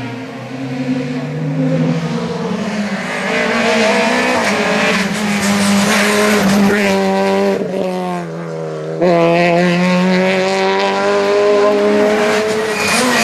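Rally car engine at high revs on a stage, its pitch climbing and dropping repeatedly with gear changes and lifts, then suddenly louder about nine seconds in as the car comes closer.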